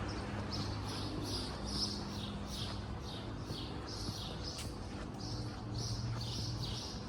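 A bird calling over and over in short, high, falling notes, about two or three a second, with a steady low hum underneath.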